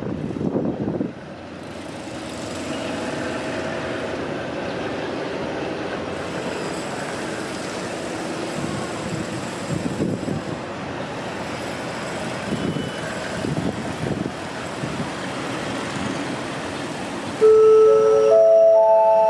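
Train running through the station, a steady rumble with faint engine tones. Near the end a loud chime of several held notes starts, the notes coming in one after another.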